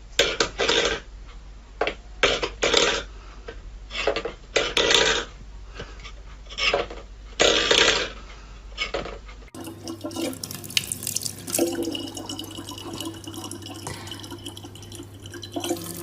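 Running water splashing in irregular bursts. About nine and a half seconds in, a cut changes it to a steadier, fainter trickle over a low hum.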